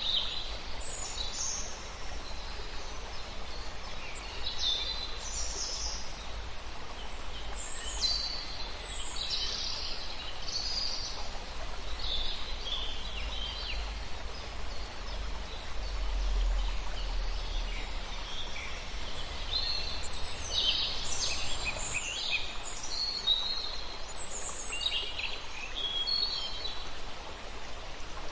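Several wild birds calling and chirping, with many short high notes and quick gliding calls overlapping, over a steady low rumble.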